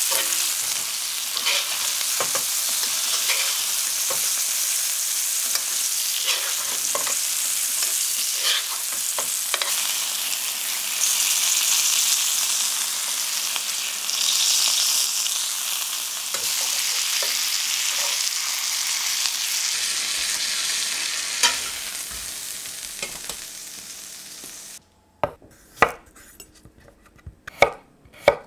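Pork chops sizzling in butter in a frying pan, with a spoon ticking against the pan as they are basted. The sizzle fades, and near the end a knife chops through baby potatoes on a wooden cutting board in a few sharp knocks.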